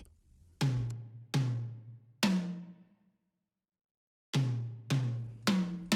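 Sharp drum-like hits, each with a low ringing tone that fades quickly. Three come in the first couple of seconds, then after a pause of silence four more come at an even pace.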